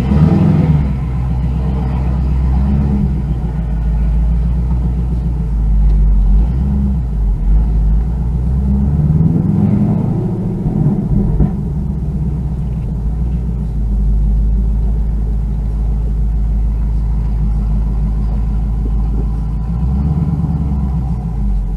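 Car engine running with a steady low rumble, its pitch shifting briefly up and down a few times.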